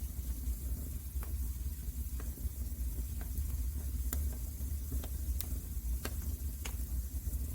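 Wood fire burning in a fireplace: a steady low rumble with a soft hiss, broken by sharp single crackles and pops about once a second.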